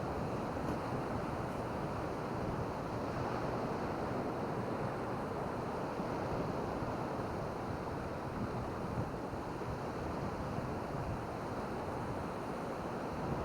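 Steady rushing wash of ocean surf on a beach, mixed with wind.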